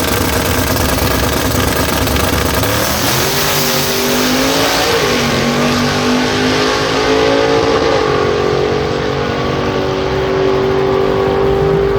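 C10 drag truck's engine at full throttle on a drag pass: its note climbs steeply, breaks twice at gear changes about five and eight seconds in, then holds high and steady.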